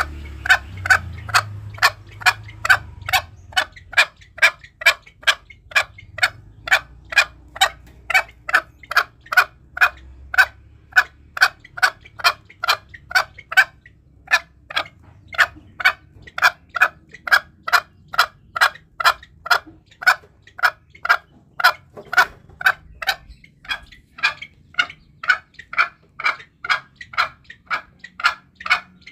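Green junglefowl calling: a long, steady series of short, sharp notes, about two or three a second, pausing briefly about halfway through and again a few seconds later.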